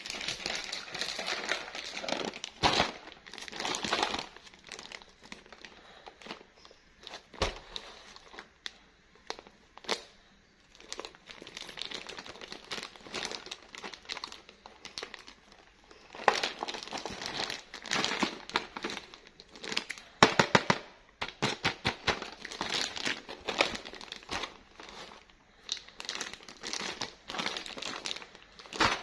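Plastic packaging crinkling and crackling in bursts as it is handled and pulled open during an unboxing, with sharp clicks and a few tearing sounds.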